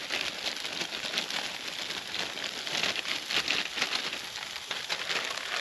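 Meatballs and onions frying in a pan on a Swedish Army Ranger Trangia stove: a steady, dense crackling sizzle.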